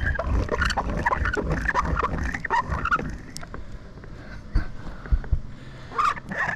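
Irregular squeaking from a hand tool whose bearings are worn out, dry and in need of lubrication. The squeaks come thick for the first three seconds, ease off, and return near the end.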